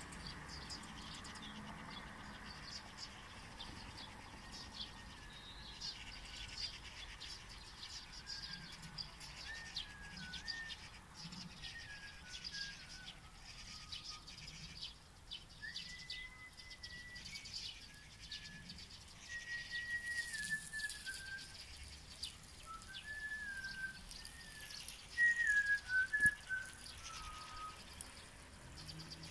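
Birds singing outdoors: a whistled song of short notes that step up and down, loudest near the end, over many quieter high chirps.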